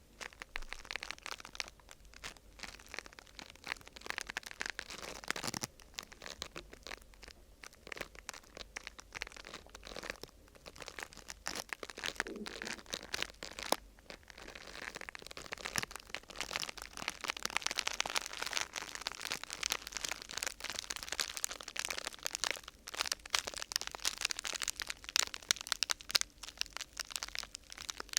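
Crinkling and crackling of thin vinyl or paper sheet being handled and crumpled, a dense run of small crackles that grows a little louder in the second half.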